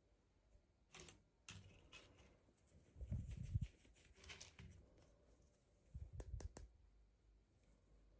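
Faint hands-on handling of toy packaging: scattered light clicks and plastic or paper rustles, with two short clusters of dull low bumps a few seconds apart.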